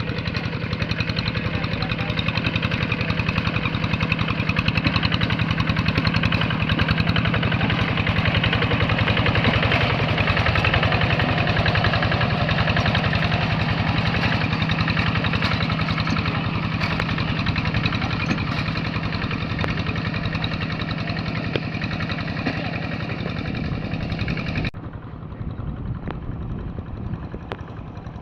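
Rice-paddy tractor engine running steadily with a fast, even chugging beat; near the end it abruptly becomes quieter and duller.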